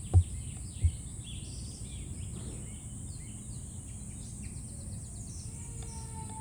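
Outdoor ambience of small birds chirping here and there over a steady high-pitched hiss and a low rumble. Two dull low thumps in the first second are the loudest sounds.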